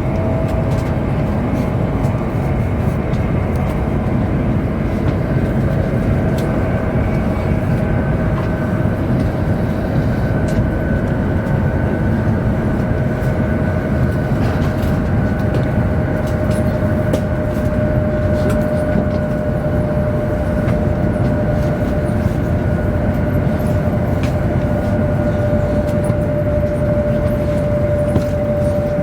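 Chinese high-speed train running at speed, heard from inside the passenger car: a steady, dense rumble with a thin whine above it that drifts slightly lower in pitch.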